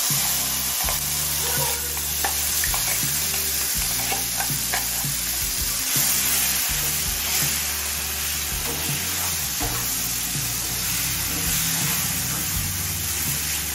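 Ground flat-bean paste sizzling in hot mustard oil in a frying pan while a spatula stirs and spreads it, with scattered clicks and scrapes of the spatula against the pan.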